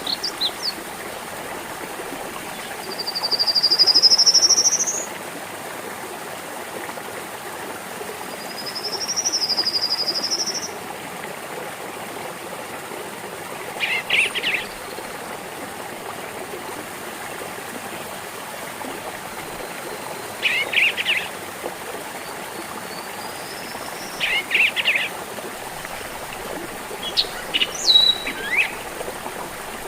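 A small stream babbling steadily while birds call over it: a long rising whistle a few seconds in and a wavering whistle about ten seconds in, then short rattly calls every few seconds and a quick run of sharp notes near the end.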